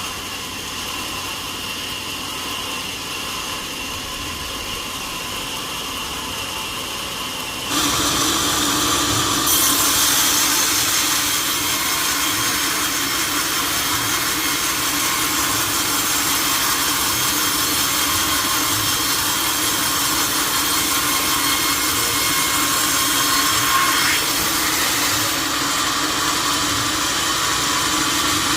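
Sawmill saw running steadily with a whine, then cutting into oak about eight seconds in, the sound suddenly growing louder and harsher as the blade works through the log.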